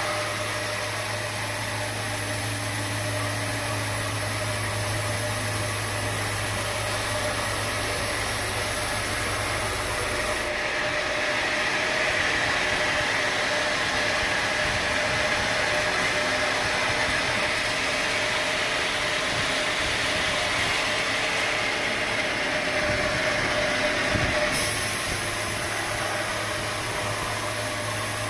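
Sawmill machinery running steadily, with a constant mid-pitched tone. About ten seconds in the low hum drops away abruptly and a brighter hiss takes over, until the hum comes back near the end.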